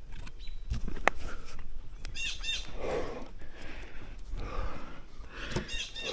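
A small bird chirping, two short runs of a few quick high notes, over the scrapes and knocks of hands and bare feet shifting on rough tree bark during a climb.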